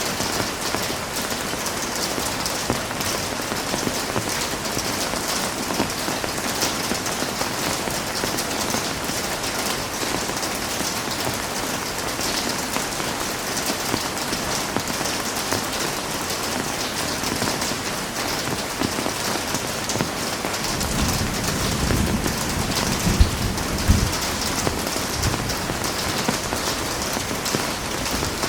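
Heavy rain falling steadily, a dense even hiss of drops. About two-thirds of the way through, a low rumble swells for a few seconds and then fades.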